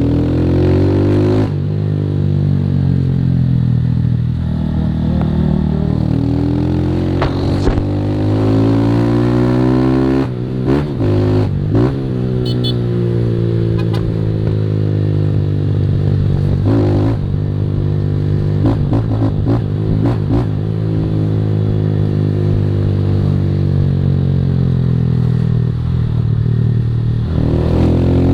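Single-cylinder 160 cc motorcycle engine with a Fortuna Trioval aftermarket exhaust, ridden hard: the exhaust note climbs in pitch under acceleration and drops at each gear change, again and again.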